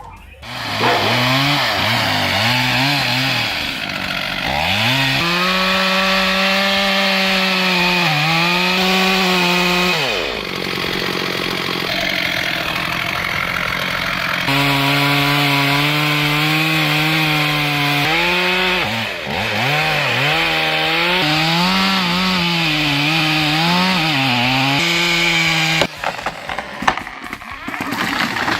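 Chainsaw running at high revs and cutting wood, its pitch wavering and dipping as the chain loads up in the cut. The sound drops away about ten seconds in and comes back about four seconds later. Near the end it gives way to irregular knocks and crackling.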